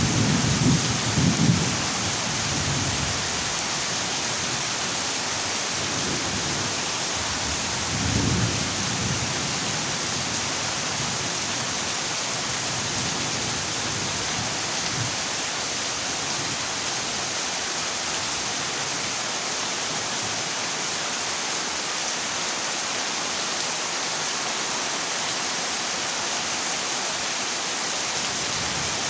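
Heavy rain drumming steadily on a corrugated zinc roof, with low rolls of thunder in the first two seconds and again about eight seconds in.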